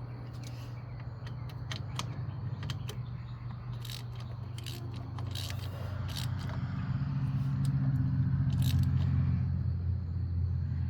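Hand tools clicking and scraping against metal brake parts during brake work, over a low engine hum that swells about seven seconds in and eases near the end.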